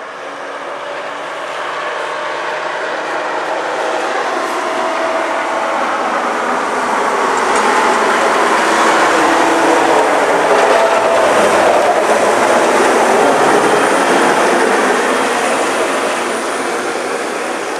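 Snowplow truck approaching and driving past, its engine and plow blade on the snowy road growing steadily louder to a peak about two-thirds of the way through, then easing off slightly.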